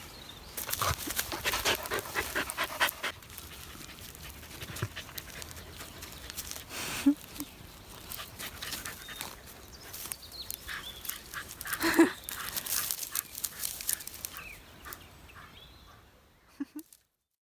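Shiba Inu and Samoyed playing, panting and scuffling in quick irregular bursts, with two brief low dog calls partway through. The sound cuts off suddenly near the end.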